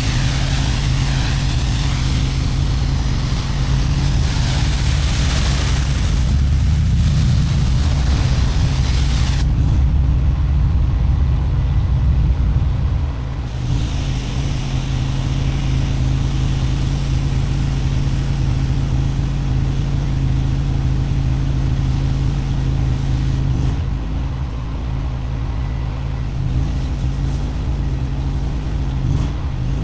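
Pressure washer's gas engine running steadily under the hiss of high-pressure water spraying a concrete driveway; the hiss thins for a few seconds about ten seconds in, then returns.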